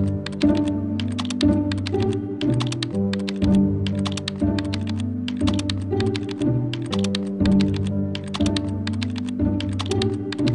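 Keyboard typing: quick clicks in short bursts with brief pauses, over background music with held low notes.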